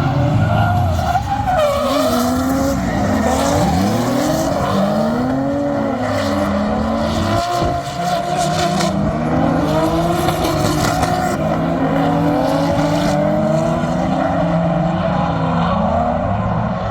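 Drift car engine revving hard, its pitch climbing and dropping again every second or two, with tyres skidding.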